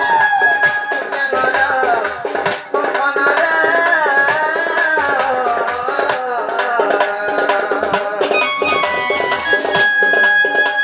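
Danda folk music: drums and percussion playing a steady stream of strokes under a wavering melody line.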